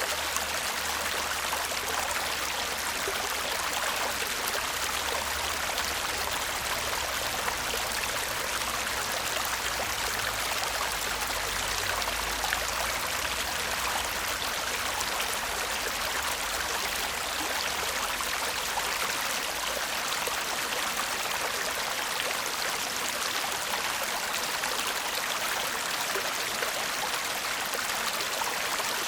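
Small stream babbling and murmuring steadily over stones, an even rushing of water with no pauses. A faint low rumble sits underneath and fades out about two-thirds of the way through.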